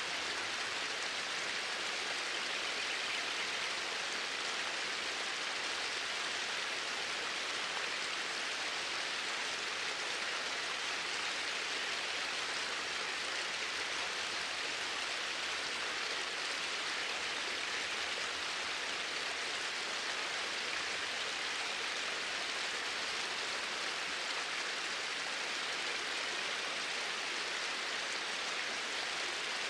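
Flowing water running in a steady, even rush.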